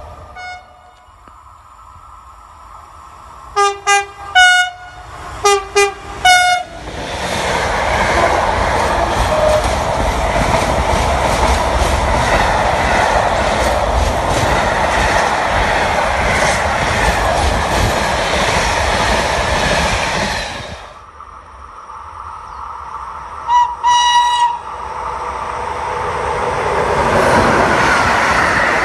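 Train horn giving two quick groups of short blasts, then a train passing close for about fourteen seconds with a steady loud rumble and rattle that cuts off suddenly. Another short horn blast follows, and train noise builds again near the end.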